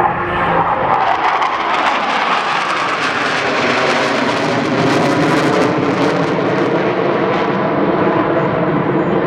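Jet noise of Blue Angels F/A-18 Hornets flying past: a loud roar whose pitch falls over the first few seconds as the jets go by, then a steady roar.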